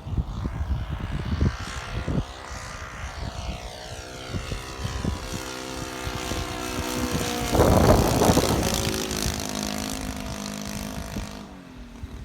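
Radio-controlled Spitfire model's OS GF40 single-cylinder four-stroke petrol engine in flight, its propeller drone sliding in pitch as it passes, loudest about eight seconds in and fading away near the end. Wind buffets the microphone in the first couple of seconds.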